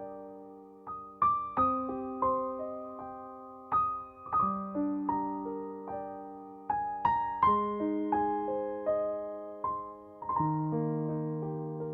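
Soft solo piano background music: gentle broken-chord phrases, each note struck and left to ring and fade.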